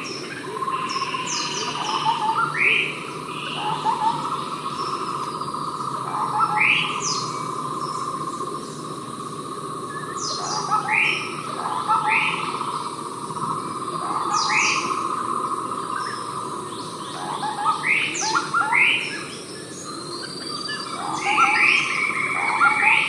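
Javan scimitar babbler calling: repeated sharp downward-sweeping notes, often in quick pairs or triplets, over a steady high insect drone.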